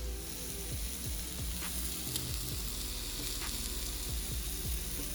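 Food sizzling loudly on a hot flat-top griddle, the hiss swelling as wine is splashed onto it, with a few light spatula clicks.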